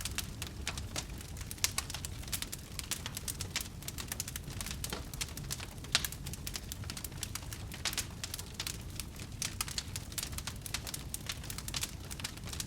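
Wood fire burning in a fireplace, crackling with many quick, irregular pops and snaps over a low rumble of the flames. A sharper pop stands out about halfway through.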